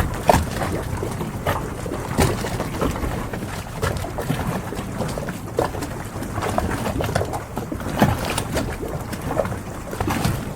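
Harbor ambience: a steady low wash of water and wind, with frequent irregular small knocks and clicks.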